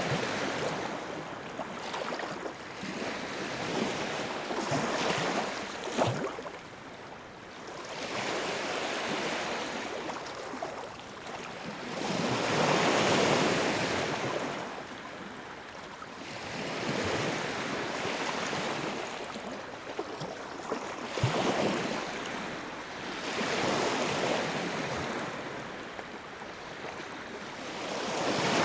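Sea waves breaking and washing up on the shore, a rushing hiss that swells and ebbs every few seconds, with the biggest wave about halfway through.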